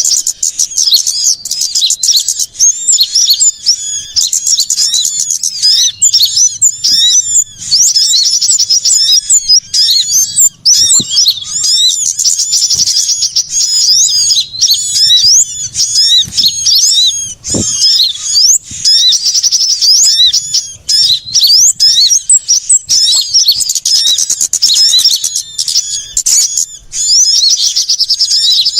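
A dense, unbroken chorus of many small songbirds, rapid high chirps and trills overlapping one another. This is the agitated 'noisy' calling of small birds such as sunbirds that bird-lure recordings use to draw birds in.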